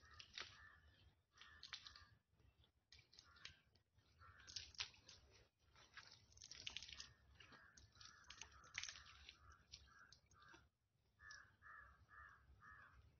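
Near silence, with faint bird calls repeating through it, ending in a run of four short, evenly spaced calls near the end, and scattered faint clicks.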